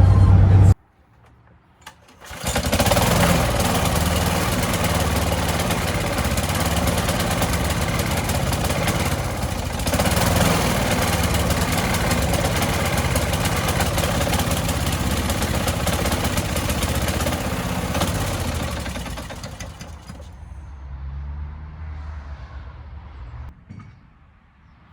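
Small petrol lawn mower engine starting about two seconds in and running steadily, then dying away about 20 seconds in; this mower starts and then stalls.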